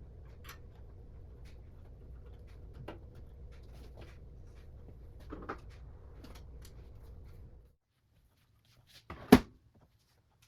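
Light clicks and taps from computer parts being handled during assembly, over a steady low hum. The hum cuts off suddenly, then one sharp knock comes near the end.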